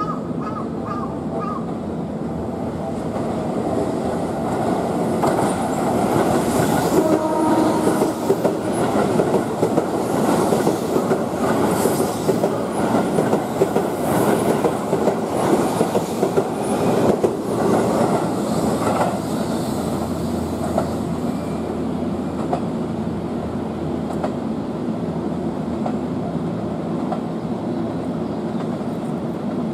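Keihan 3000 series electric train passing through the station, its wheels clattering over rail joints and points. The clatter is loudest for about fifteen seconds in the middle, then eases to a steady rumble.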